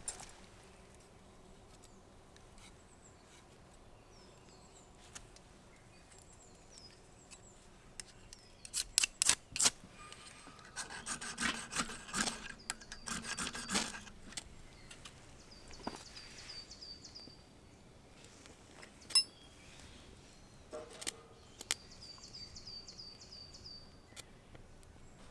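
A quick run of sharp clicks, then a few seconds of rubbing or scraping from hands at work. A bird sings a short run of quick repeated high notes twice in the background.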